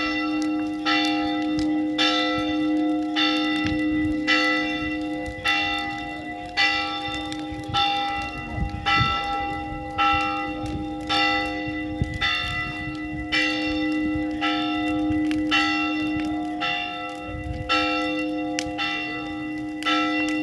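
A church bell tolling, struck steadily about once a second, each stroke ringing on into the next.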